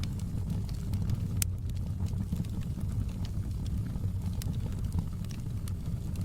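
Wood fire burning in a fireplace: a steady low rumble of the flames with scattered sharp crackles and pops, one louder pop about a second and a half in.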